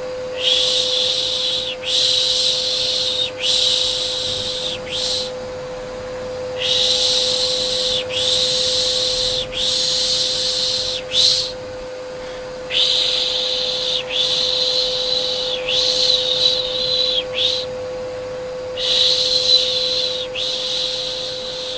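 Rhythmic soothing shushing ('pış pış'): long 'shhh' sounds in groups of three or four, with short pauses between the groups, over a steady vacuum cleaner hum.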